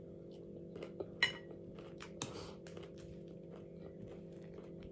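Close-up chewing and crunching of food, a string of short irregular crunches and mouth clicks over a steady low hum.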